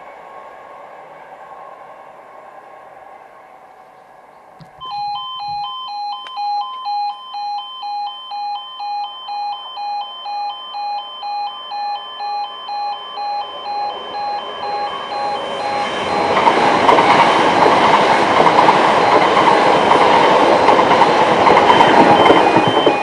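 Level crossing warning alarm starts about five seconds in: a two-tone warble switching back and forth about twice a second. About ten seconds later an electric multiple-unit train rushes through the crossing, loud and rising over the alarm.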